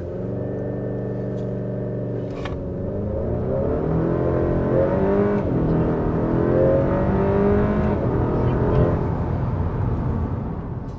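Turbocharged 2.0-litre four-cylinder of a 2019 Honda Accord, heard from inside the cabin, held at steady raised revs against the brakes for a brake-torqued launch. The car then pulls away hard in second gear, the engine note rising, dipping at an upshift about five seconds in, and rising again.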